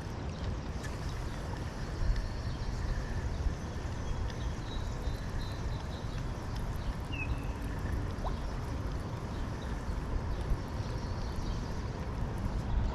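Steady outdoor rushing noise with a deep rumble at the low end, the kind river water and wind on the microphone give, with a few faint high chirps about a third of the way in.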